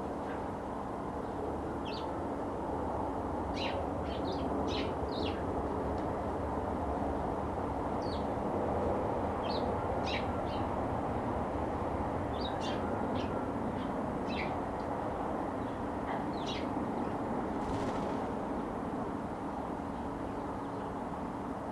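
Eurasian tree sparrows giving short, scattered chirps over a steady background rumble.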